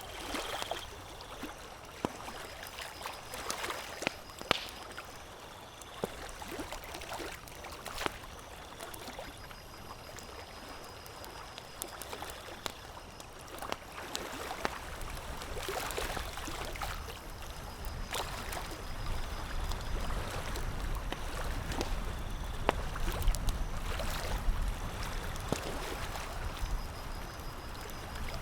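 Campfire crackling with scattered sharp pops, over a steady watery wash like small waves lapping at a shore. A low rumble builds up in the second half.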